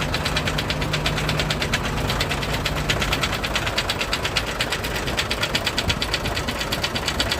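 Hino HO7D diesel truck engine running with a fast, even, sharp knock. The knock comes from a broken cylinder liner and a damaged piston.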